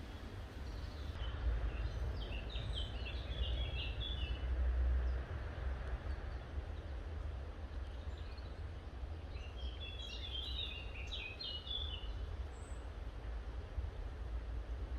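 A small bird singing two short bursts of quick chirping notes, about two seconds in and again about ten seconds in, over a steady low rumble and outdoor background noise.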